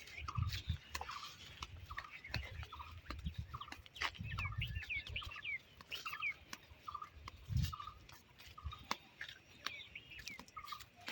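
Birds calling: a short note repeated about twice a second, with a run of quick chirps about midway. Intermittent low rumbles and clicks run underneath.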